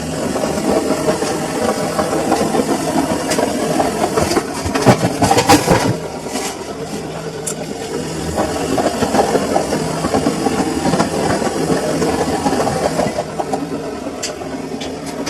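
Samsung washing machine running its wash cycle with a full load, the drum turning with a busy rumble and a steady hum, and a louder spell of clattering about five seconds in.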